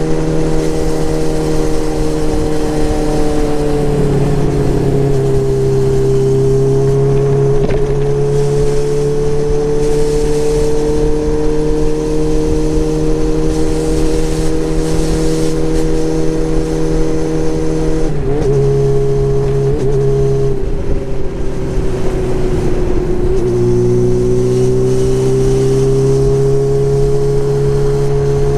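Motorcycle engine running while riding along at a steady speed. The note drops about four seconds in, falters and dips between about eighteen and twenty-three seconds, then picks up and holds steady again.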